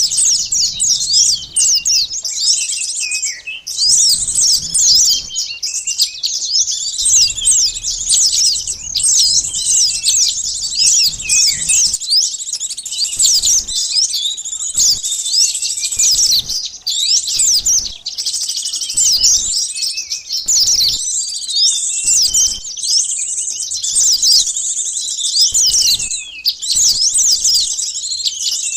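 Bird-lure recording of small wild songbirds: a dense, unbroken chorus of high, rapid chirps and twitters from many birds at once, mostly quick falling notes.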